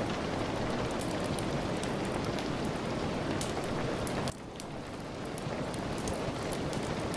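Steady rain with scattered sharp pops of a crackling fire. About four seconds in the sound drops abruptly and swells back over the next couple of seconds.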